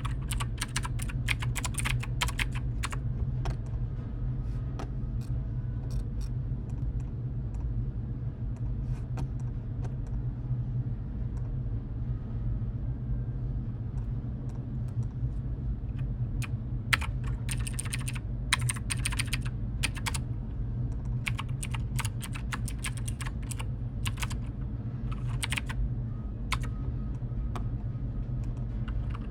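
Computer keyboard typing in bursts of rapid keystrokes with pauses between, over a steady low hum.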